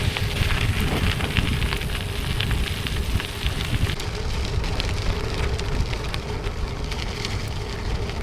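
Gravel bike tyres (Panaracer GravelKing SK Plus, 45 mm) rolling over a gravel road, a steady crunching crackle full of small stone clicks, over a low rumble of wind on the microphone.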